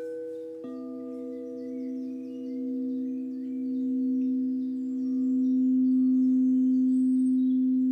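Singing bowl ringing with a deep, steady tone that wavers slowly. It is sounded afresh less than a second in and swells louder. Faint high bird chirps sound above it.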